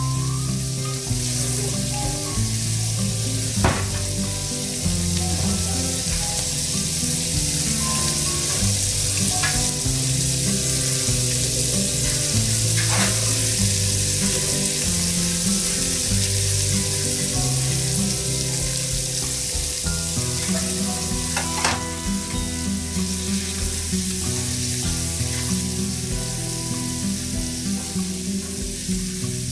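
Cubes of Kobe beef frying in fat on a flat steel griddle, a steady sizzle, with a few sharp taps of the chef's metal knife and fork on the plate. Background music with held low notes plays underneath.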